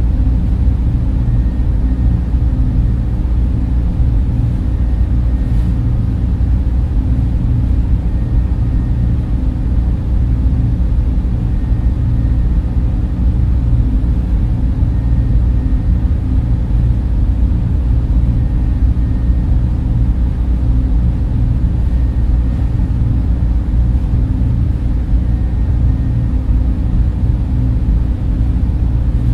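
Server room cooling fans running with a steady, unchanging low whir, heaviest in the bass, with a faint high whine above it.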